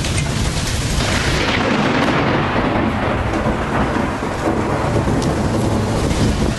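Thunderstorm: heavy rain with a loud rolling rumble of thunder. The rumble swells about a second in, then its hiss dies back over the following couple of seconds.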